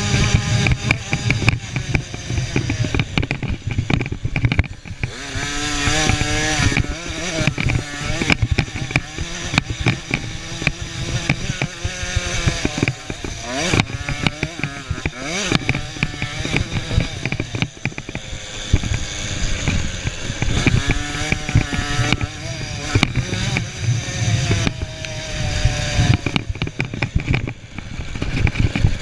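Small 50cc two-stroke motocross bikes running hard, their high buzzing engine note repeatedly rising and falling as they rev up and shift or back off around the track, several engines overlapping.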